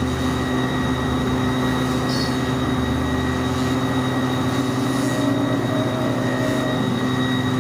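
A machine-shop machine running steadily: a constant hum with a thin high whine over a continuous mechanical rumble.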